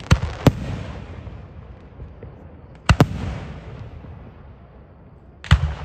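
Aerial fireworks shells bursting overhead: two sharp bangs half a second apart at the start, a close double bang about three seconds in, and another near the end, each followed by a rolling, fading rumble.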